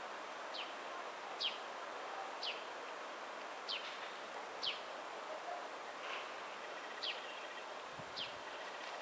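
A small bird calling over steady outdoor hiss: about seven short high chirps, each sliding down in pitch, roughly one a second with a pause midway.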